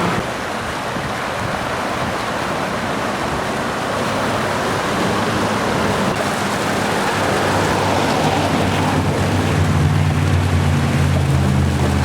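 Steady rushing noise of rain and wind on a moving chase vehicle, with a low droning hum joining about halfway through.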